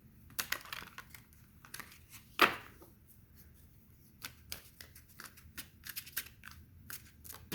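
A tarot deck shuffled by hand: a run of quick, soft card snaps and slides, with one louder swish about two and a half seconds in.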